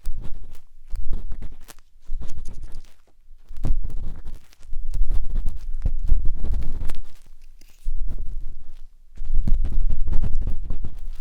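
Matchstick scraping and rubbing inside the silicone ear of a 3Dio binaural microphone, close up. It comes in strokes of one to two seconds with short pauses between them, a low rumble with fine crackles.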